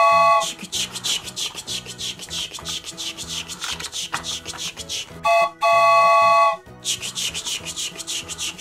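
Toy train horn sounding a short toot then a long multi-note blast, at the start and again about five seconds in, with a fast, even chugging rattle between them.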